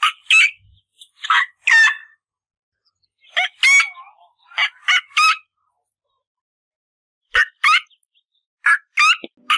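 Short, high bird calls, mostly in quick pairs and once in a run of three. About six groups are spread across a few seconds, with silence between them.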